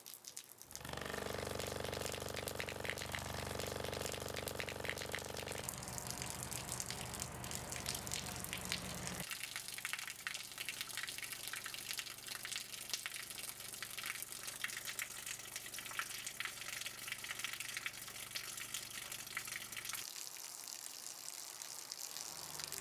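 A stream of running water splashing, with a low, buzzy tone from a speaker driving the water flow. The tone changes about six seconds in and mostly drops away about nine seconds in, leaving mainly the water.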